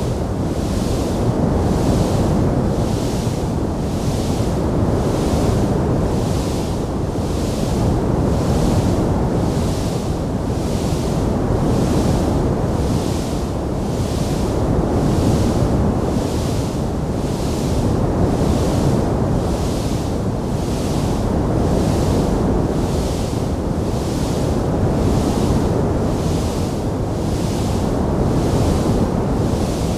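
Wood fire burning in a fireplace: a steady, dense rushing noise, with a fainter high hiss that swells and fades about once a second.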